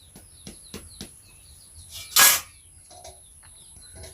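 Small birds chirping, with scattered light clicks. About two seconds in, a short, loud rushing burst.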